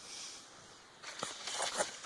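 Faint rustling with a scatter of light clicks and taps starting about a second in: someone handling things while preparing a dog's food.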